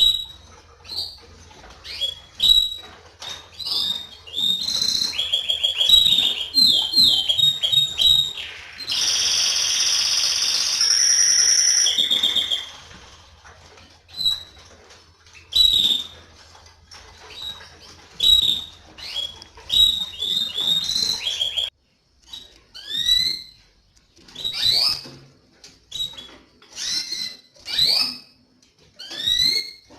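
Domestic canaries chirping and singing in short phrases, with a dense, sustained trill lasting about three seconds near the middle. Sharp, sweeping chirps follow.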